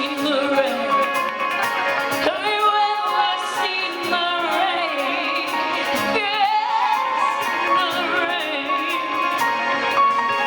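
Live rock song played by a band through an arena PA, with a woman singing lines that bend and waver with vibrato over the band.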